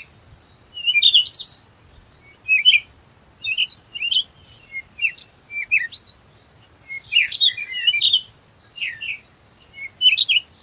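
Small birds chirping: clusters of short, quick high chirps and whistles, a new burst roughly every second.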